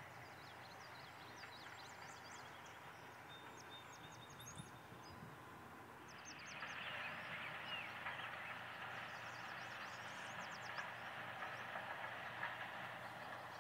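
Birds chirping in several quick runs of short, high notes over a steady hiss that grows louder about six and a half seconds in.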